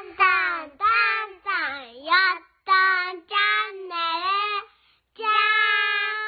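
A child's voice singing a short sung phrase of several syllables with gliding pitch, ending on one long held note.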